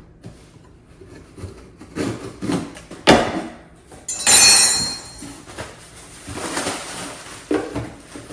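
Handling noises: scattered knocks, one sharp knock about three seconds in, then about a second of loud scraping or rustling.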